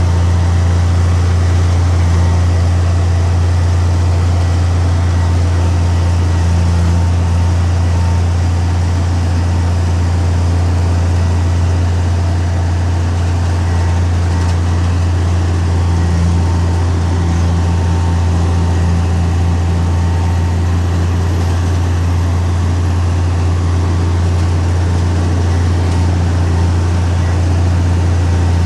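Heavy diesel earthmoving machine engine running steadily, a deep low drone with a faint higher whine above it.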